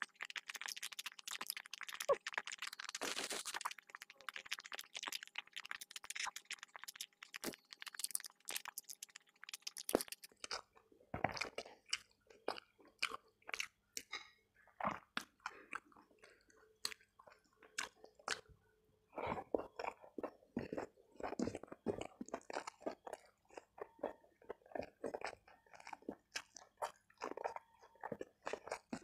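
Close-miked eating: a person chewing and crunching mouthfuls of rice, fried tempe and stir-fried papaya leaves eaten by hand, with wet mouth clicks. The chewing is dense at first, thins out in a quieter stretch through the middle, then picks up again in the last third.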